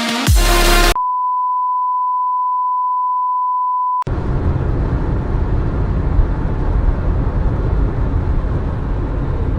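Electronic music ends about a second in, then a steady single-pitch beep tone holds for about three seconds and stops abruptly, giving way to a loud, even rushing noise that is heaviest in the low end.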